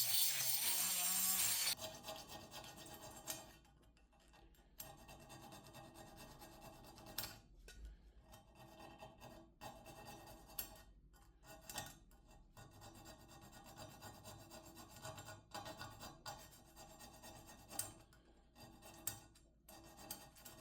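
Irregular hand scraping and rubbing on the metal of a 1940s charcoal clothes iron, with small clicks between strokes, as the rust is worked off. A louder rasping noise cuts off about two seconds in.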